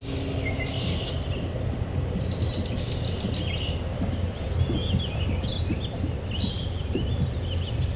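Small birds chirping and calling several times over a steady low rumble.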